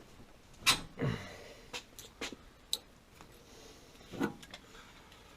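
Scattered clicks and knocks of metal plumbing parts and hand tools being handled while a pipe fitting is worked into place, the loudest about a second in.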